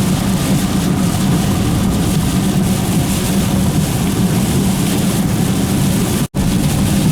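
Steady engine and road noise from inside a moving car's cabin. The sound cuts out completely for a split second about six seconds in.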